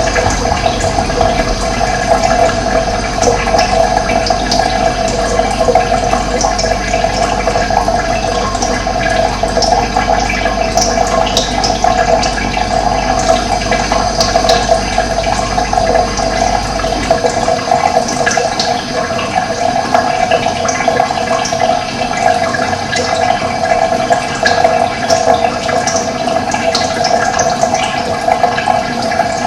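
Running water flowing steadily, a continuous rushing splash. A low rumble underneath stops a little past halfway.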